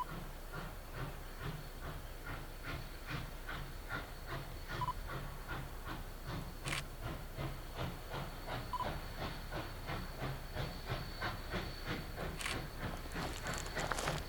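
Exhaust of a K-37 2-8-2 narrow-gauge steam locomotive chuffing steadily as it works a train, about four beats a second over a steady hiss of steam.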